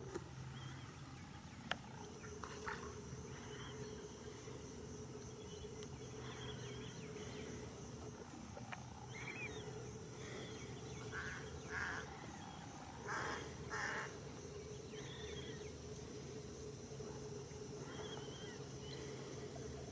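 Wetland birds calling now and then over a steady high insect drone and a low hum, with two harsher, louder calls about 13 and 14 seconds in.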